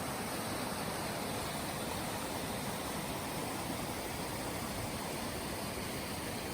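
A waterfall: falling water making a steady, unbroken rushing noise.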